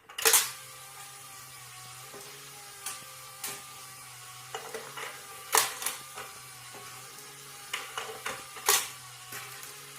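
A series of sharp clicks and taps at irregular intervals over a steady low hum, the loudest about half a second in, and others near the middle and near the end.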